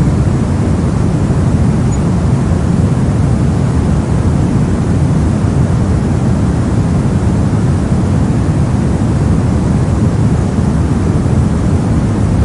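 Steady, unbroken synthetic noise, deep and soft: mostly a low rumble with only a faint hiss above it, unchanging throughout.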